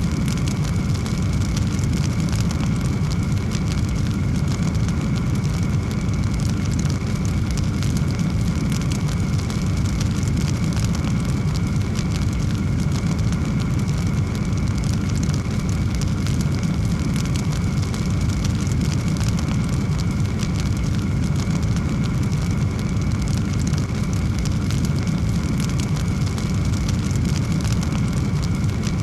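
A fire burning with a steady low roar and many faint, fine crackles.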